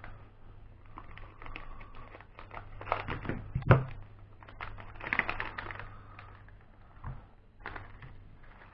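Small electronics parts and packaging being handled: irregular light clicks, taps and short crinkly plastic rustles, with a sharper tap about three and a half seconds in.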